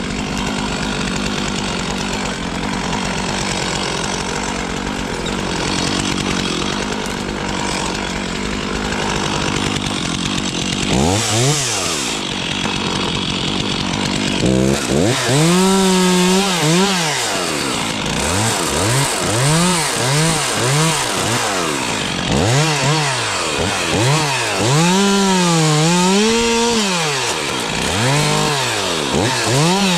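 Stihl two-stroke chainsaw running steadily for about ten seconds, then its engine pitch swings up and down again and again through the rest of the time.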